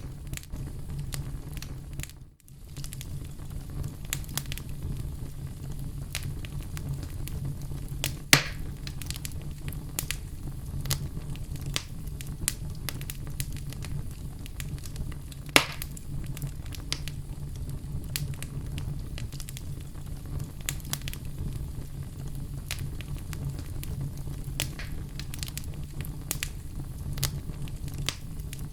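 Oak logs burning in a fireplace: a steady low flame rumble under constant crackling. Two loud pops stand out, about 8 and 15 seconds in. The sound cuts out briefly about two seconds in.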